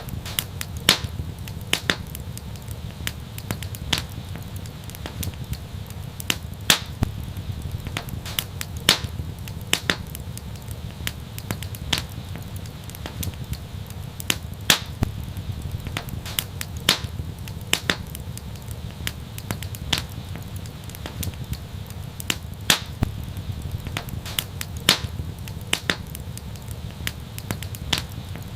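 Fireplace fire crackling: irregular sharp pops and snaps, one or two a second and some louder than others, over a steady low rumble.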